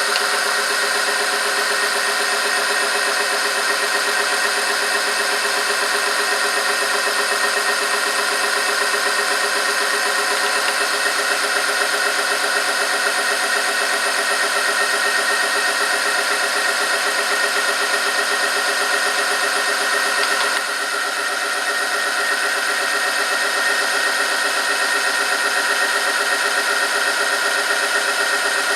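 Oil-film strength test machine running steadily under load: its motor spins a roller against a metal test sample in heated oil, giving a steady mechanical whine with several fixed tones. The sound drops slightly about two-thirds of the way through.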